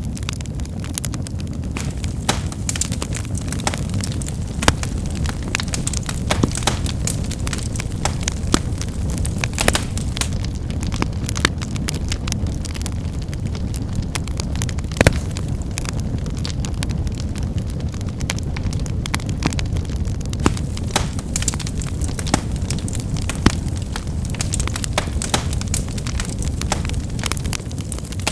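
Wood fire burning with a steady low rumble and frequent irregular crackles and snaps of firewood, a few sharper pops standing out, one of the loudest about halfway through.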